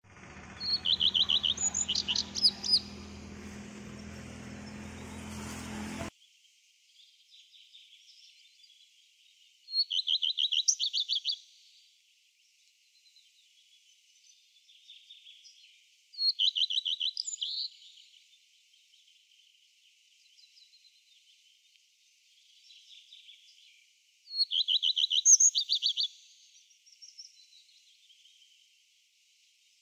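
A songbird singing the same fast, trilled phrase four times, about two seconds each, at intervals of roughly seven seconds. A low steady hum lies underneath for the first six seconds and then stops abruptly.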